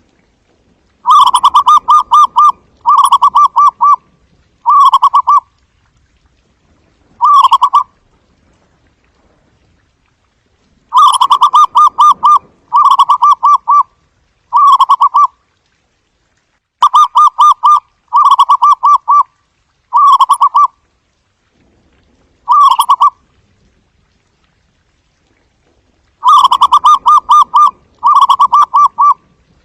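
Zebra dove calling: repeated bouts of soft, staccato trilled cooing. Each bout is a run of three or four rapid-pulsed phrases that grow shorter, with pauses of a few seconds between bouts.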